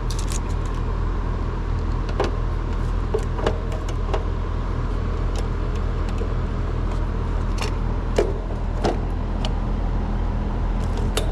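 Steady low machine hum throughout, with scattered light clicks and taps of hand work on wiring.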